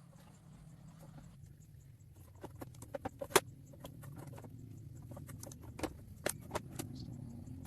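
Scattered light clicks and taps, irregular, the sharpest about three and a half seconds in, over a low steady hum.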